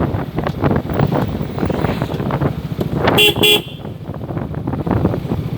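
Honda CBR150 motorcycle engine running with wind noise while riding. About three seconds in, a vehicle horn gives two short toots, and the engine noise then drops for a moment.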